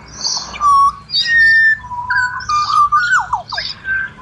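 Pied butcherbirds singing: clear, fluted whistled notes, some held and some sliding down in quick slurs, with harsher chattering notes over them.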